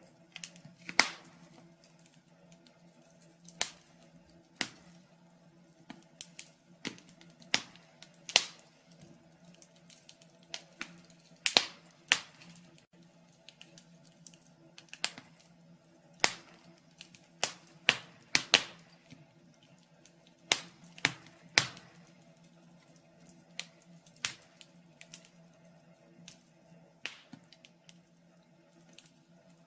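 Wood fire in a fireplace crackling, with irregular sharp pops about once a second over a faint steady low hum.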